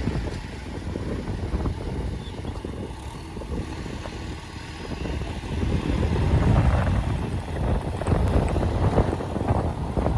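Heavy diesel machinery engine running, a rough low rumble that grows louder about six seconds in.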